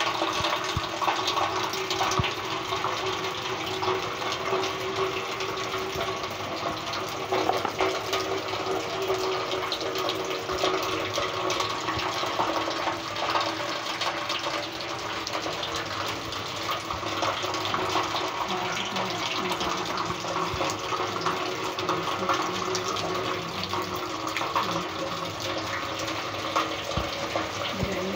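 Steady rain falling, a dense even patter of drops splashing on wet stone paving and into standing water.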